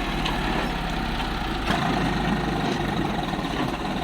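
A heavy diesel engine of road-repair machinery runs steadily. Partway through there is a sharp click, and after it a rougher rumble grows stronger.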